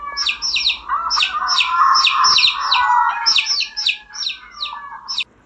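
Baby chicks peeping: a steady run of short, high, falling peeps, about three a second, over softer continuous chirping, cutting off suddenly near the end.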